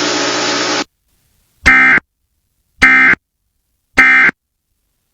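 Emergency Alert System end-of-message data burst: three short, identical, harsh digital squawks about a second apart, signalling that the alert is over. They follow a steady hiss that cuts off just under a second in.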